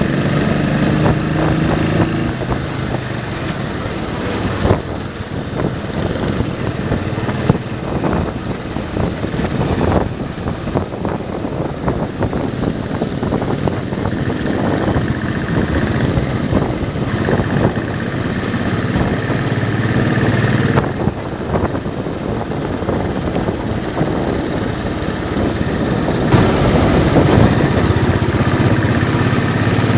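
Royal Enfield Bullet 500 single-cylinder four-stroke engine running under way on the road, mixed with rushing wind on the microphone. The engine's pitched note is plainest near the start and the end. The tone shifts abruptly a few times.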